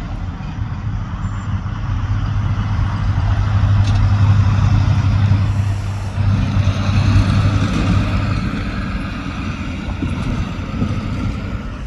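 VIA Rail diesel locomotive running, a steady low engine drone with rumble and hiss that grows louder about a third of the way in and eases off toward the end.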